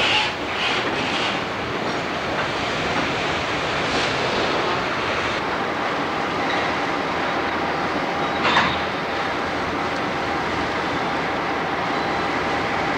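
Train noise: a string of empty open-top hopper cars rolling, with brief wheel squeals in the first second or so. After that comes the steady running sound of a consist of EMD GP16 diesel locomotives, with one short sharp squeal about eight and a half seconds in.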